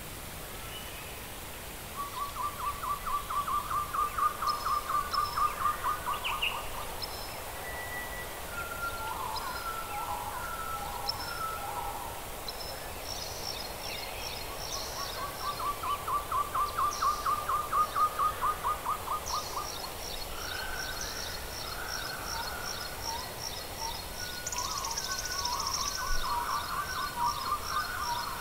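Birds calling: a long run of quick repeated notes about two seconds in, and again around fifteen seconds, with scattered chirps and high thin trills, the trills steadiest toward the end.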